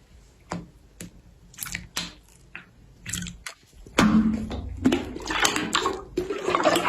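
Slime being poked and squeezed by hand: scattered sticky clicks and pops, turning into denser, louder squelching and crackling about four seconds in.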